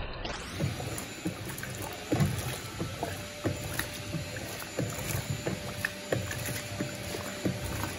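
Electrolux Turbo Compacta LTC07 top-load washing machine agitating a load of rugs in water: irregular sloshing with soft knocks every half second or so, over a faint steady hum.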